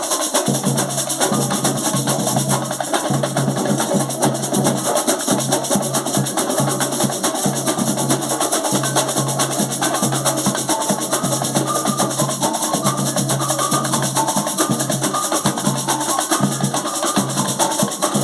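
A band playing a song with dense, quick percussion over a low bass line of held notes, with short higher melody notes on top.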